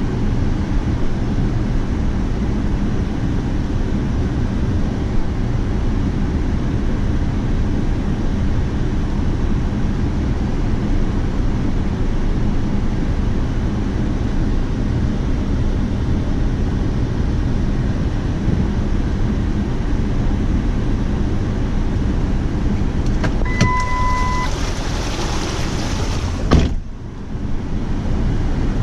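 Steady low rumble of a motor vehicle running. About 24 seconds in there is a short electronic beep, then a brief hiss, and the sound cuts off abruptly near the end.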